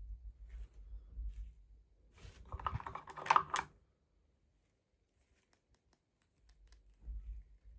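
Hands handling small plastic toy parts and packaging: scattered clicks, taps and rustling. A louder flurry comes about two to four seconds in, followed by a silent gap of about two seconds before the handling resumes.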